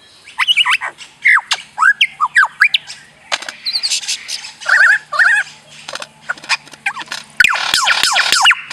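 Lyrebird singing a varied run of whistled, sweeping calls and sharp clicks, its mimicry of surrounding sounds. Near the end it breaks into a fast, dense string of descending sweeps.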